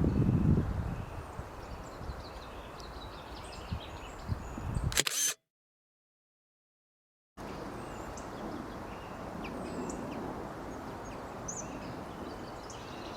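Outdoor ambience with scattered faint bird chirps and a low rumble in the first second. About five seconds in, a sharp click comes just before the sound cuts to dead silence for about two seconds; then the steady outdoor noise and chirps return.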